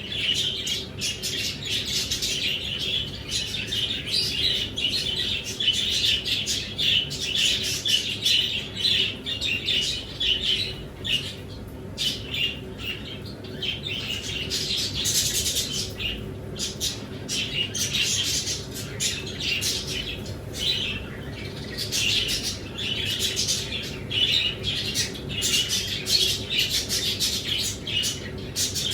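Many small cage birds chirping continuously, a dense overlapping chatter of short, high chirps.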